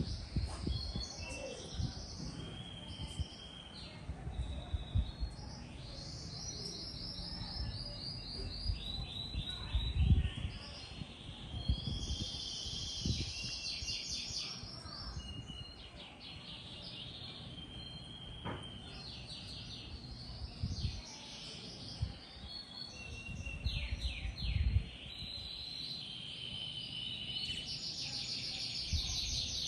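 Several birds calling and singing outdoors, with overlapping chirps and fast repeated trills throughout. Low thumps come and go underneath, the strongest about ten seconds in and again near twenty-five seconds.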